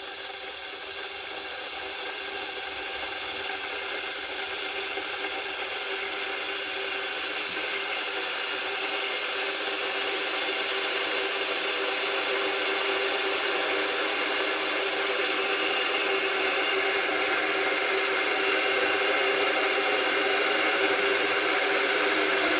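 Electric kettle heating water: a steady hiss that grows gradually louder as the water heats toward the boil, showing that the repaired kettle is heating normally.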